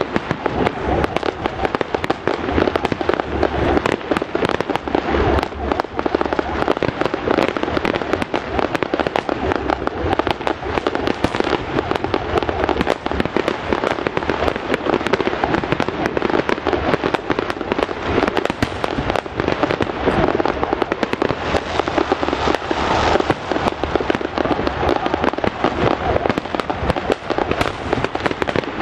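Fireworks display going off non-stop: a dense, unbroken barrage of sharp bangs and crackles.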